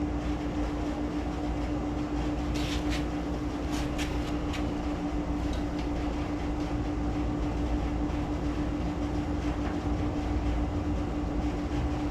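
Steady machine hum holding one constant tone over a low rumble, with a few light clicks between about three and four and a half seconds in.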